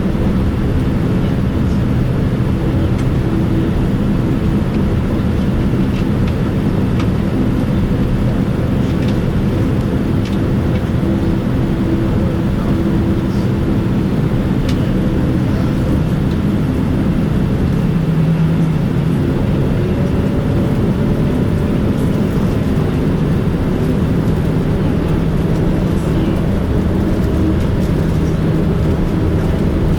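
Steady low rumble heard from inside the cabin of a Boeing 787-9 airliner, with several steady engine tones and no clear rise or fall in pitch.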